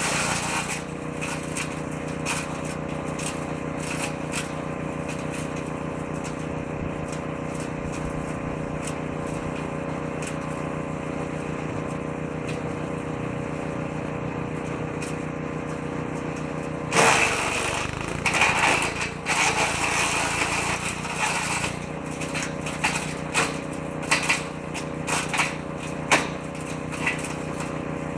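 Fuel-engined woodchipper shredder running steadily, then about two-thirds through a branch is fed in: the engine note drops under the load as the shredder drum chews and crackles through the wood, followed by scattered knocks.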